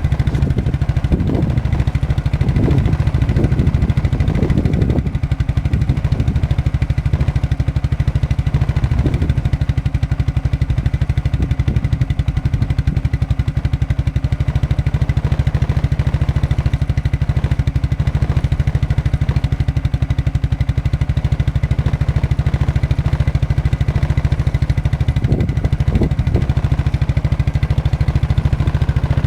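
Single-cylinder engine of a 1992 Suzuki QuadRunner ATV idling steadily just after a cold start on full choke. It is idling low and running rich.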